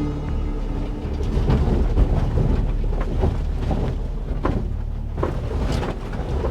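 A 1958 VW bus rolling down a steep, rough dirt trail on its brakes: a steady low rumble with scattered knocks and crunches from the tyres on rock and the body rattling.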